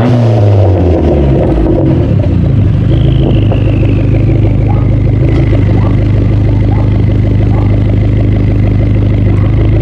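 2005 Dodge SRT-4's turbocharged 2.4-litre four-cylinder, stock exhaust, coming down from a rev in the first second or two and then idling steadily. A faint high whine falls in pitch a few seconds in.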